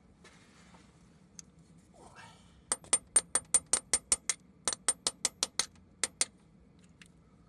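Quick, light hammer blows on a steel tool driven into the hole drilled in an engine core plug, widening the hole; each strike rings metallically. About nine strikes, a short pause, about six more, then two.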